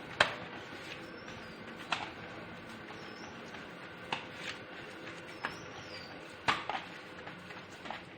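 Faint, scattered taps and clicks from masala paste being mixed with yogurt in a bowl, with a few faint high bird chirps in the background.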